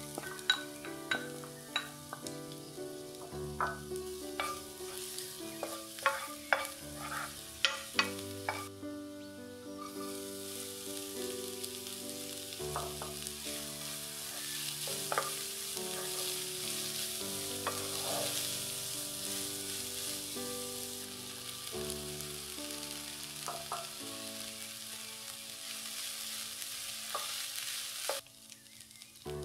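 Chopped garlic and onion sizzling in hot oil in a frying pan while a wooden spatula stirs them. Sharp clicks and taps of the spatula on the pan come over the first several seconds, then a steady sizzle takes over and drops away near the end. Soft instrumental music plays underneath.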